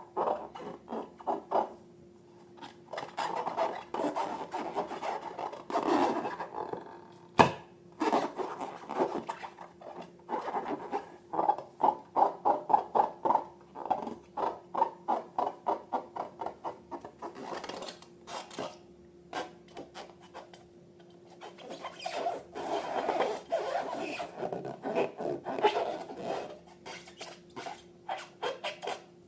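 Slime being worked by hand: a run of quick squishing strokes, about three a second, pausing briefly twice. There is one sharp click about seven and a half seconds in.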